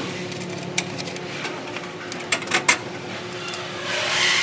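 Steady machine hum in a factory workshop, with a few sharp clicks and knocks, three of them in quick succession midway, and a swell of hiss near the end.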